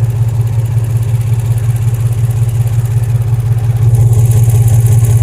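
2003 Infiniti G35's 3.5-litre V6 idling badly with a steady, rapid pulse, louder from about four seconds in. It is thought to be running on only three cylinders: one bank is likely not firing because of a damaged injector wiring harness.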